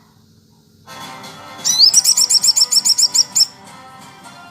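Small songbird singing: a rising whistle, then a rapid run of high, sharp repeated notes, about seven a second, lasting under two seconds, over a fainter bed of other bird calls.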